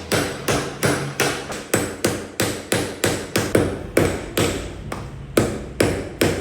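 A hammer striking a metal ring being shaped by hand, in an even run of about three blows a second.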